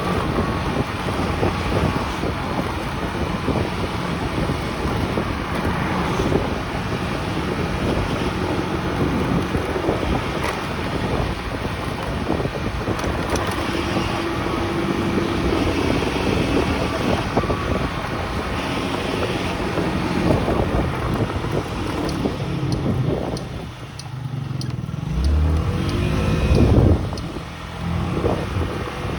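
Small motorcycle running on the road with wind buffeting the microphone. Near the end the sound drops briefly, then the engine revs up.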